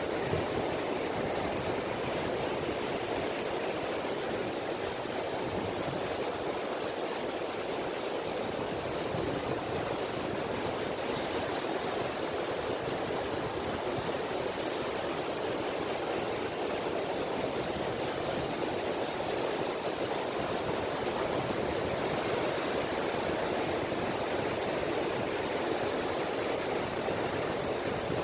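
Small sea waves (ripples) washing continuously onto a beach, a steady rush of water that swells and eases slowly.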